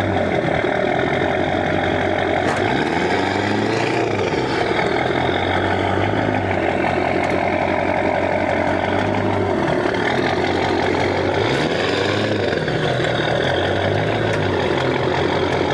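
Engine of the pulling vehicle running hard under load, its revs swelling up and back down twice as it strains on a tow strap against a stuck van that only slides sideways and does not come forward.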